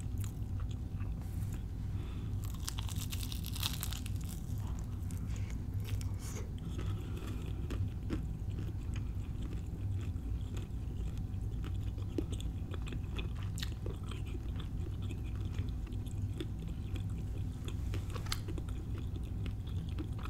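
A person chewing a mouthful of fried empanada up close, with scattered crunches of the crisp pastry crust and wet mouth clicks. The crunching is densest about three seconds in.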